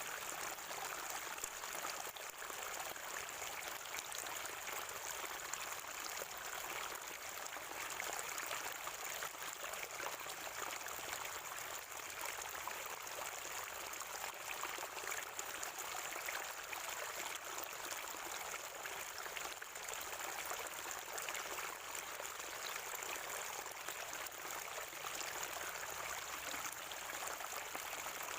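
Water from a natural spring gurgling and trickling, a steady, even rush with no breaks.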